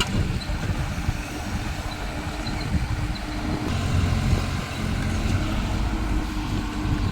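CAT excavator's diesel engine running steadily, its sound shifting and growing heavier about four seconds in as the machine works.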